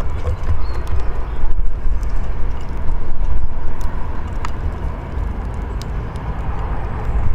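Steady, loud low rumble of outdoor background noise, with a few faint short clicks scattered through it.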